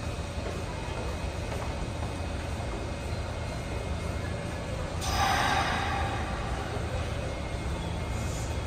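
Steady low rumble of an electric train at a station platform, with a short hiss about five seconds in.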